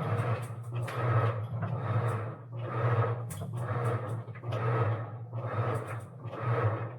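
Washing machine running: a steady low motor hum under a rhythmic swish of water and laundry in the tub, about one swish a second, as the wash cycle agitates the load.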